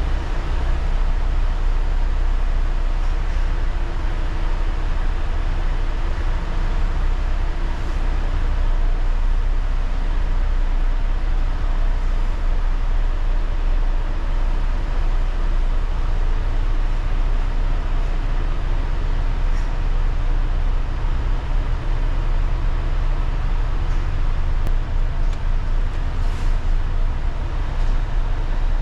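A heavy engine running steadily: a constant low drone with an even rushing noise over it, unchanging throughout.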